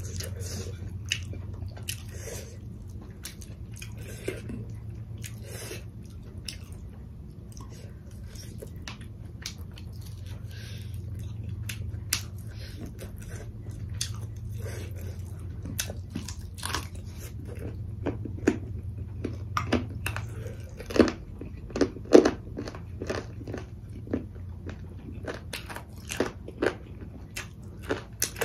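Close-miked chewing and biting of food eaten by hand, with many short crunchy clicks from the mouth that come thicker and louder in the second half. A low steady hum runs underneath for the first two-thirds.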